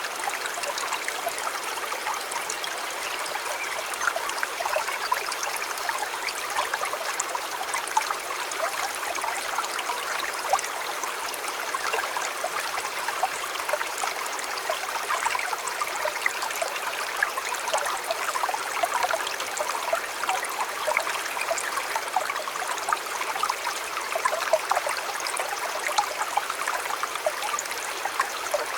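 Shallow river flowing over stones, a steady babbling and trickling with many small splashes and no birds or other sounds standing out.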